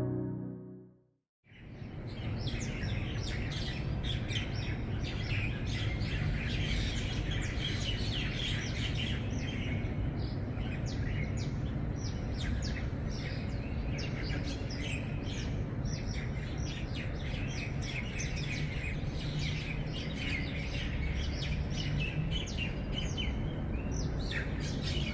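Many birds chirping and calling rapidly over a steady low rumble, starting about a second and a half in after a brief silence.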